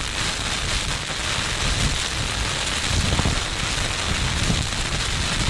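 Heavy rain and gale-force wind beating on a Vango Banshee 200 tent, heard from inside: a dense, steady hiss of driving rain on the flysheet with low, gusty buffeting of the fabric.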